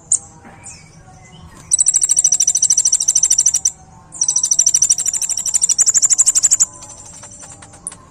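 A kolibri ninja sunbird singing two long, very fast trills of high, rapidly repeated notes, each lasting two to two and a half seconds, with a short break between them. Fainter chirps come before the trills and after them.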